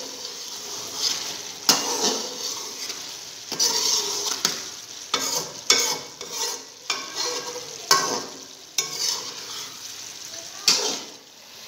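Chicken pieces with chopped tomato and green chillies sizzling in hot ghee in a metal pot while a spatula stirs them, with irregular sharp scrapes and knocks of the spatula against the pot every second or so. This is the bhuna stage: frying the masala until the tomato breaks down.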